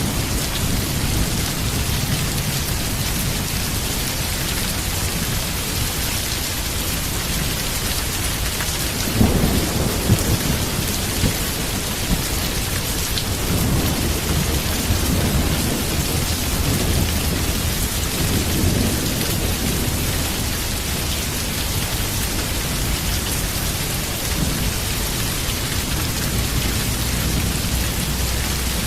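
Heavy rain falling steadily with rolling thunder beneath it. A louder rumble comes about nine seconds in, followed by more distant rumbling.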